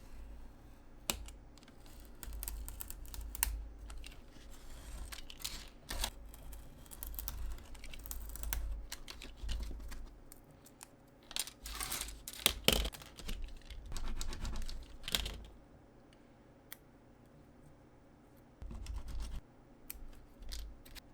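Small handling sounds of miniature craft work at a table: irregular light clicks, taps and short scratches of small materials being picked up and worked. They thin out about three quarters of the way through.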